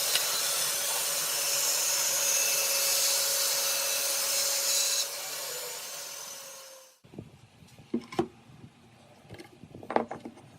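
An electric power tool runs steadily on wood, is switched off about five seconds in and winds down over the next two seconds. After that come a few light knocks and clicks of wood and tools being handled.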